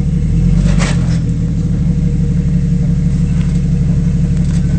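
A 4x4 off-road vehicle's engine running steadily at low revs, with a brief rush of noise about a second in.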